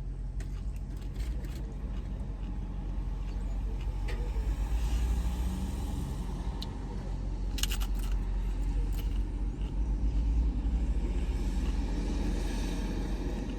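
Steady low rumble of a car, heard from inside the cabin, with a few brief clicks or crunches, the clearest about two thirds of the way through.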